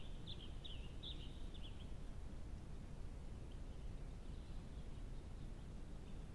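A small bird chirping: a quick run of short, high, falling notes in the first two seconds, then fainter chirps later. Under it, steady low background noise.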